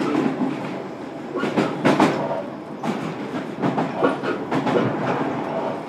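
Running noise inside a JR Kyushu 305 series electric train car, with the wheels clicking and knocking over rail joints at irregular intervals above a steady rumble of wheels on rail.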